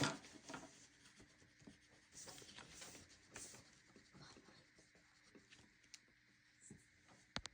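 Faint scratching of a pen drawing short strokes on paper, in intermittent bursts. There is a tap at the start and a sharp click near the end.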